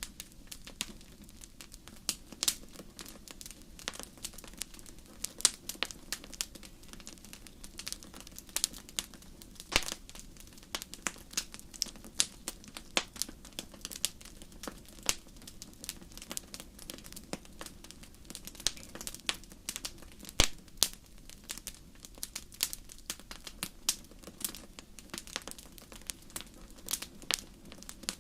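Wood fire crackling in a fireplace: irregular sharp pops and snaps, several a second, over a low steady hiss.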